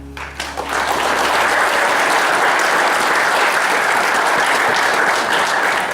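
Audience applauding: the last sustained chord of the song fades out in the first second as steady clapping swells in.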